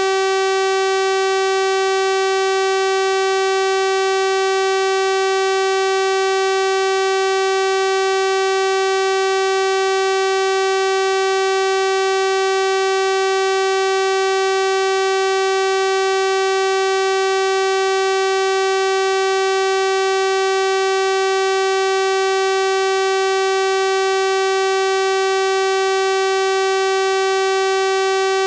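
Synthesized 384 Hz sawtooth-wave tone, held steady and unchanging: a bright, buzzy electronic drone with a full series of overtones.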